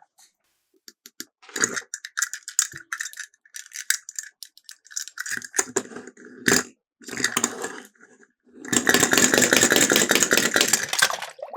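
Miniature toy cars rattling as they run down a slope, in several short clattering bursts, then a longer continuous rattle of about two and a half seconds near the end.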